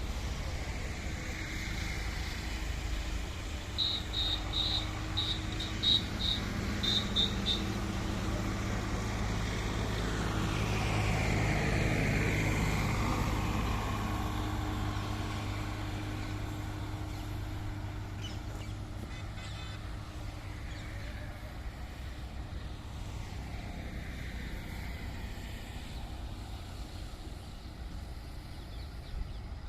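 A train hauled by an Indian Railways WAG-9HC electric locomotive passing by, its sound swelling to a peak about twelve seconds in and then slowly fading, over a steady low hum. A short run of high chirps comes a few seconds in.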